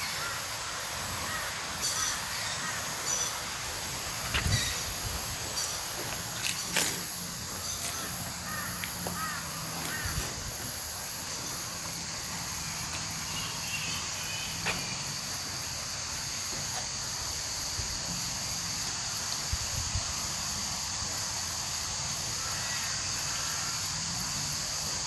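Outdoor garden ambience: a steady high insect drone that dips about once a second, with birds calling now and then.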